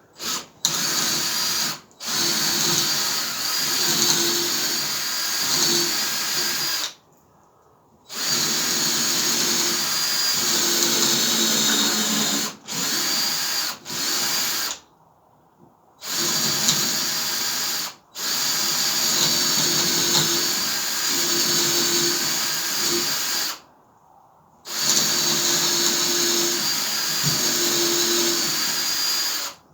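Electric drill boring holes into the end grain of a seasoned wooden log held in a vise. It runs in long stretches and stops briefly several times between holes.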